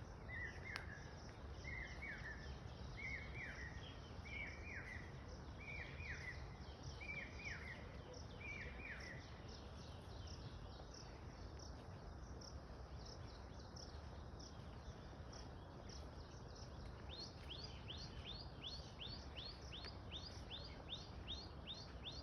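Birds calling: a short hooked call repeated about once a second for the first nine seconds, then, from about seventeen seconds in, a fast series of high, downward-sweeping notes. Steady low background noise underneath.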